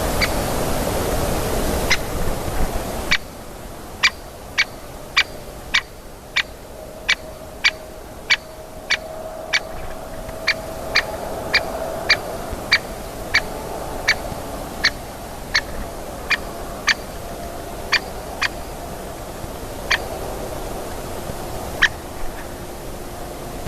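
Great spotted woodpecker giving its sharp 'kik' call, repeated about twice a second over a steady hiss of background noise.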